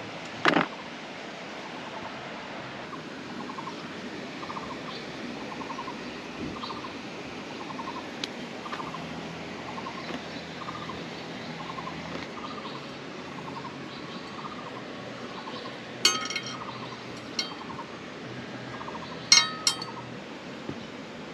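A few sharp metallic clinks, one near the start and a cluster near the end, two of them close together, as metal pieces knock against each other. Underneath, a short call repeats about once a second through the middle, over a steady hiss of background noise.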